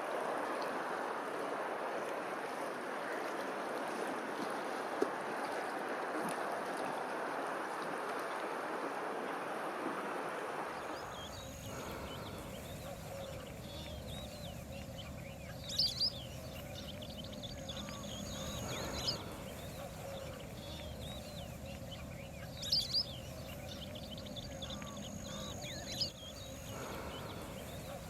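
Steady rush of water for about the first ten seconds, then it cuts off and small birds chirp and twitter over a low background rumble, with a few short, sharp high calls standing out.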